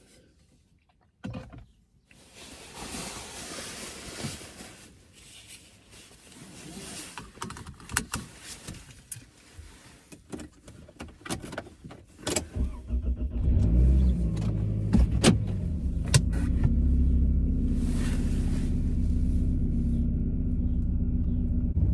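Sounds inside a car: a few clicks and some handling noise, then about halfway through the car's engine comes in and runs steadily with a low hum.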